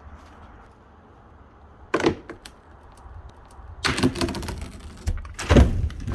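Several loud knocks and thuds: a sharp one about two seconds in, a cluster of clatters around four seconds, and a heavier thud near the end.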